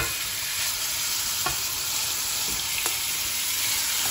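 Raw chicken mince sizzling steadily in hot oil in a non-stick wok, with a few light knocks of a spatula as the mince is scraped in and pushed around the pan.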